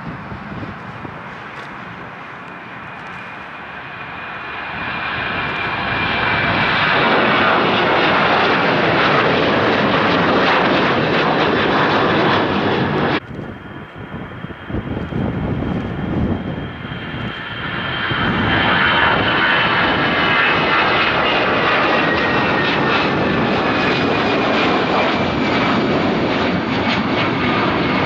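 Jet airliner engines passing close by, swelling to a loud rush with a high whine. About halfway through, the sound cuts off abruptly and a second jet's rush and slowly falling whine builds up and stays loud.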